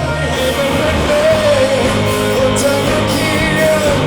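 Live band playing a Thai pop-rock love song, a singer holding a wavering sung line over guitar, bass and drums.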